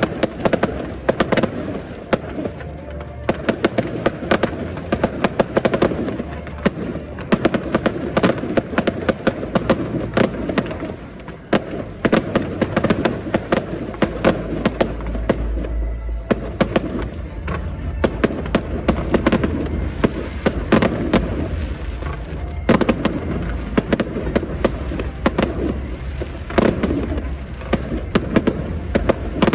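Aerial fireworks bursting in quick succession, a dense run of sharp bangs and crackles throughout, with music playing underneath.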